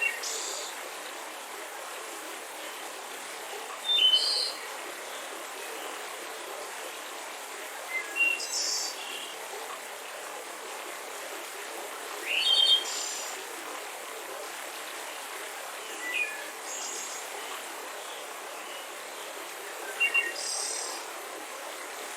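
Steady rushing of a mountain river, with a bird giving a short chirping call about every four seconds over it, six calls in all.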